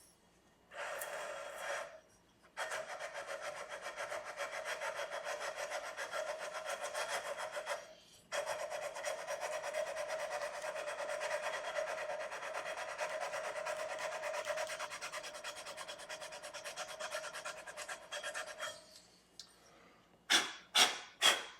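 Fret-levelling bar with abrasive rubbed back and forth along a guitar's frets: fast, even scraping strokes in long runs with brief pauses, levelling uneven frets before re-crowning. Near the end, three short loud sounds.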